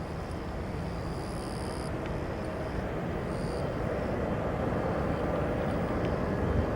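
Boeing 747-400 jet airliner on approach to land, its four-engine rumble growing steadily louder as it nears, with a faint steady whine coming in about halfway through.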